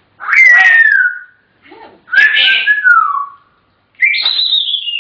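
African grey parrot whistling in three separate calls. The first two slide down in pitch, and the third, about four seconds in, is higher.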